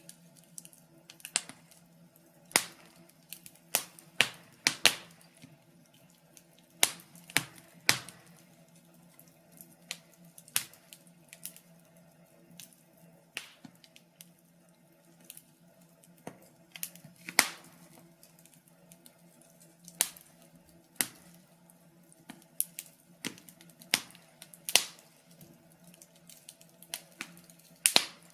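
Wood fire crackling, with sharp irregular pops about every second or so over a faint steady low hum.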